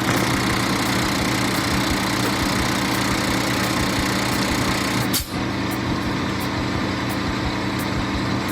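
Peterbilt semi-truck running on the road: a steady engine drone under loud road and wind noise, with a brief break about five seconds in.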